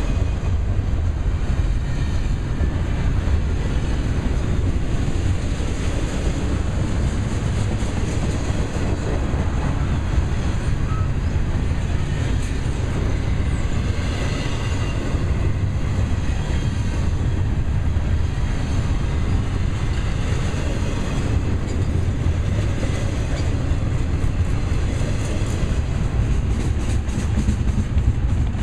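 Double-stack intermodal well cars rolling past: a steady, loud rumble of steel wheels on the rail.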